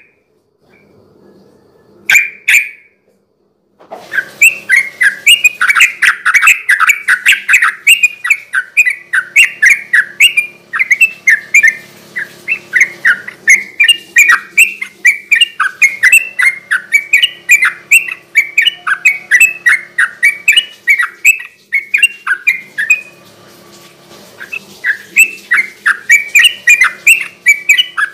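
Yellow-vented bulbul singing a fast, continuous chattering song of short, quick notes. A brief phrase comes about two seconds in; from about four seconds the notes run on almost without a break, pausing briefly about three-quarters through.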